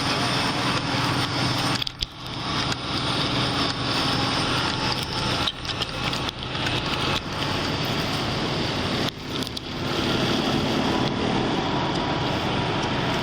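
Steady vehicle engine noise with a low hum, mixed with a rushing, crackly noise on the body-worn microphone; the noise dips briefly three times.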